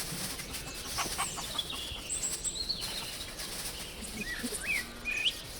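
Birds calling in short, scattered chirps, with a chicken clucking now and then.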